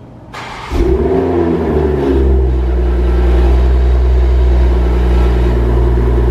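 Toyota A90 Supra with a full-titanium Remark exhaust starting up: a brief crank, then a loud rev flare that falls away over about a second, then a steady idle.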